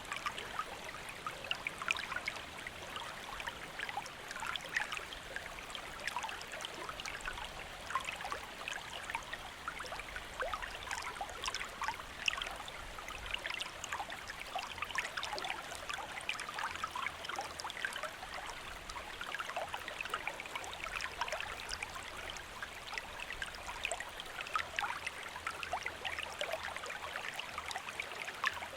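Small stream flowing over rocks: a steady babble of many small splashes and trickles, with no change in pace.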